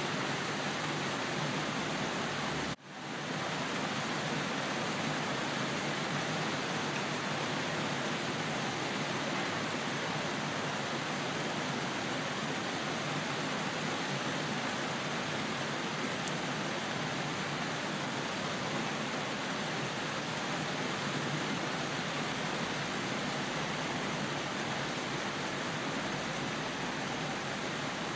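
Steady rain falling as an even hiss, with no distinct drops or thunder standing out. About three seconds in, the sound cuts out almost completely for a moment and swells straight back.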